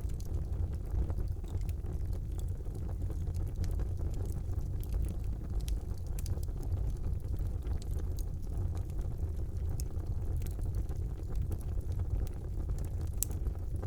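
Wood fire burning in a fireplace: a steady low rumble of the flames with scattered small crackles and pops, one sharper pop near the end.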